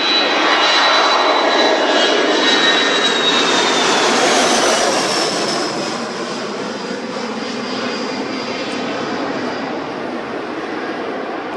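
Jet airliner engines passing loudly, a high whine falling in pitch as the aircraft goes by, then the noise easing off to a steady rumble after about five seconds.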